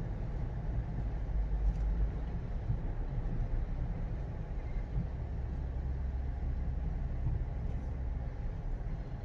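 Steady low rumble of a Jeep's engine and road noise heard from inside while driving.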